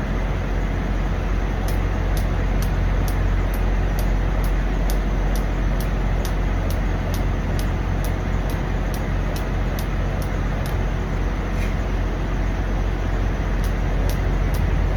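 Steady drone of an idling diesel truck engine, with a light, regular high ticking a few times a second on top.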